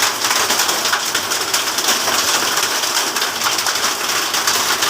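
Hail and heavy rain falling: a steady dense hiss thick with many small sharp impacts.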